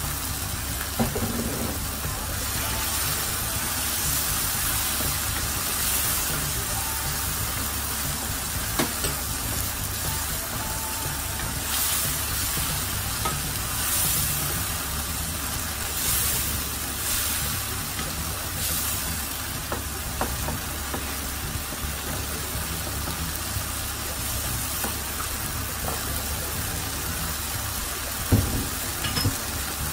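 Thick tomato-onion curry masala sizzling and bubbling in a frying pan as it cooks down. A wooden spatula stirs and scrapes through it for a stretch in the middle, and there are a few knocks near the end.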